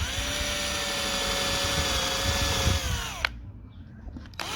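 Power drill running a bit through the softwood boards of a bird box, likely a pilot hole through the top piece into the one below. The motor whines steadily, spins down and stops about three seconds in, then starts again near the end.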